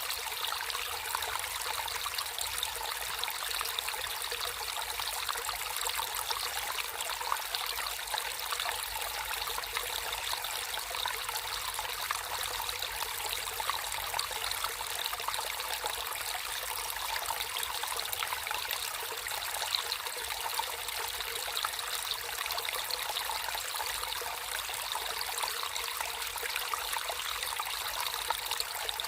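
Water flowing and trickling in a small natural stream, a steady even babble with fine splashy detail and no breaks.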